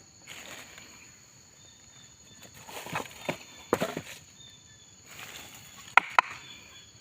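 Footsteps crunching through dry leaves and undergrowth, uneven and loudest in the middle, with two sharp snaps close together near the end. A steady high-pitched insect drone runs underneath.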